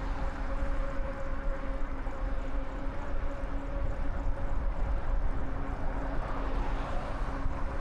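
Wind rumbling on the microphone and road noise while riding an e-bike on a paved trail, with a steady hum.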